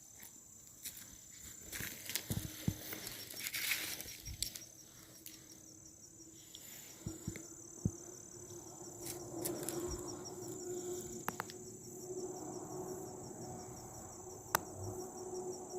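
A steady chorus of insects, a high, finely pulsing trill, with scattered crunches and rustles of footsteps in leaf litter. A low steady hum comes in about halfway through.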